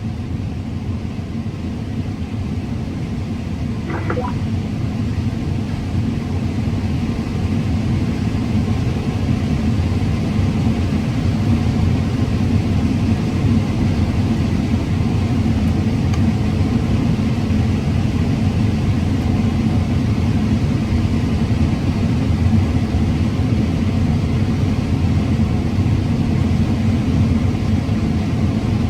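Combine harvester running steadily while cutting corn: a continuous low rumble that builds slightly over the first ten seconds or so.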